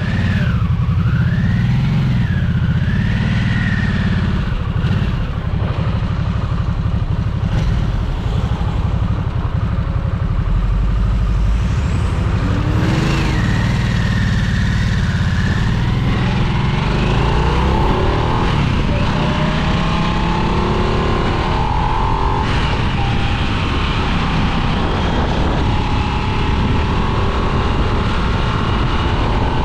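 2022 Harley-Davidson Nightster's Revolution Max 975T V-twin engine running under way, its note rising and falling with speed.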